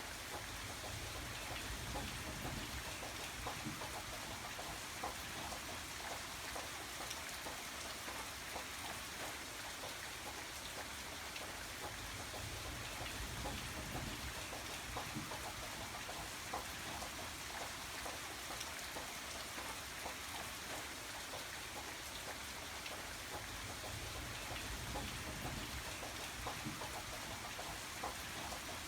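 Steady rain falling, a continuous hiss with many distinct drops ticking on a surface and a low rumble beneath.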